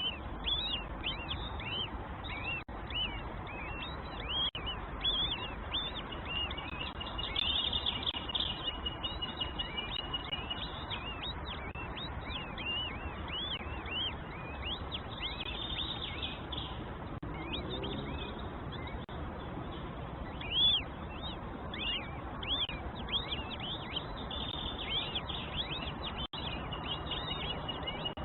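Nestling birds cheeping in the nest, a long run of quick, high arched chirps, with a thin steady high tone in a couple of stretches. It is the begging calls of chicks being fed by a parent bird.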